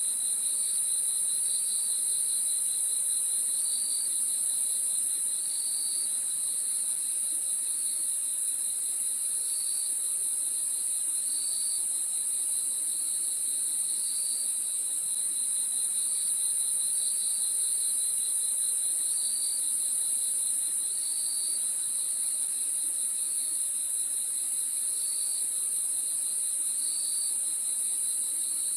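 Crickets chirping: a steady high-pitched trill over a lower, fast-pulsing chirp, with a short call repeating about every two seconds.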